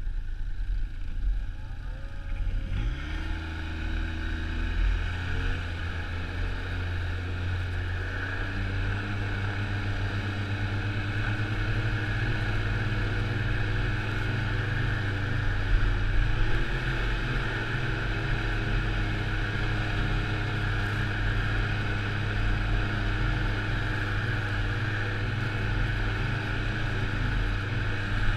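Snowmobile engine revving up about three seconds in as the sled pulls away, then running steadily at speed.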